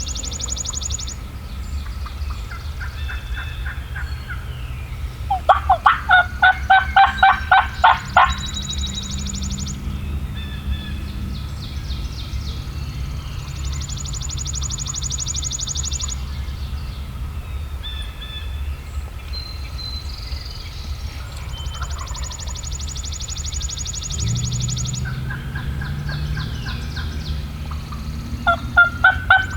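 Turkey yelping: two loud series of evenly spaced notes, about four a second, one from about five to eight seconds in and another starting near the end. A songbird's high, fast trill repeats several times, over a steady low rumble.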